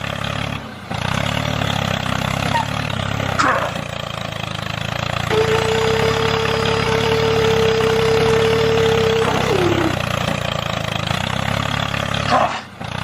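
An engine running steadily at a low even pitch. A single held tone sounds through the middle and slides down in pitch as it stops, and short pitch sweeps come about three and a half seconds in and near the end.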